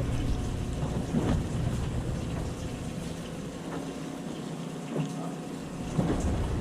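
Boat noise: a steady low engine hum with water washing around the hull, and a few light knocks on deck. The low rumble drops away for a couple of seconds midway, then comes back.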